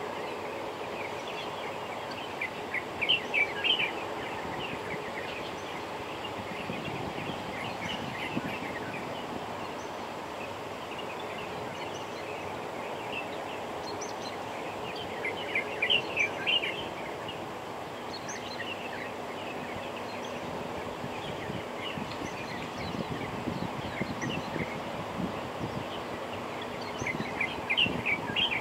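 Steady outdoor background hum with three short bursts of rapid, high-pitched bird chirps: near the start, about halfway through, and near the end.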